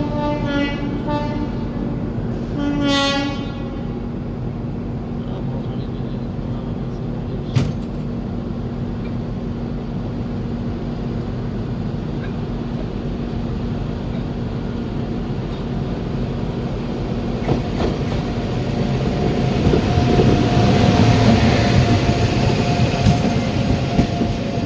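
Train running along the track with a steady rumble; a train horn sounds in short toots and then one longer blast in the first few seconds. There is a single sharp click about seven and a half seconds in, and the running noise grows louder and rattlier from about eighteen seconds on.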